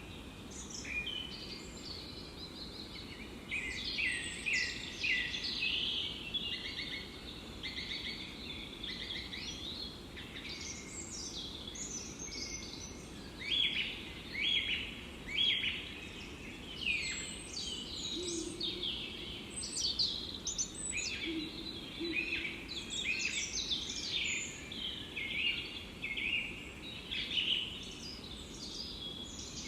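A chorus of several songbirds singing continuously in a forest: overlapping quick chirps and trills with no pause, over a steady low background hiss.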